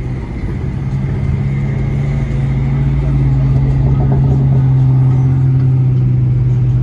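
Car engine and exhaust droning steadily from inside the cabin while cruising slowly, a low even hum that grows a little louder over the first few seconds.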